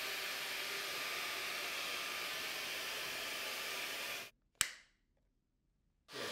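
Dyson Gen5outsize cordless vacuum's motor running steadily with a whining hiss, then shutting off about four seconds in. A single sharp plastic click follows, and the motor starts up again near the end.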